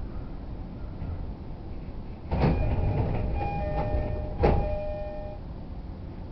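E231 series train's sliding passenger doors working with the door chime: a knock a little over two seconds in, then a repeating two-note chime, with a second, louder knock partway through the chime, over the low rumble of the train.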